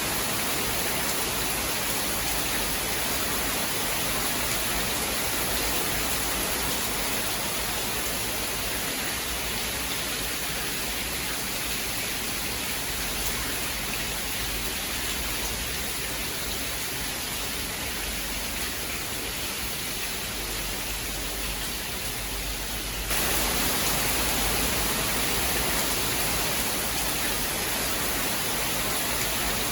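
Steady heavy rain, an even hiss with no distinct drops or thunder claps, which jumps suddenly a little louder about three-quarters of the way through.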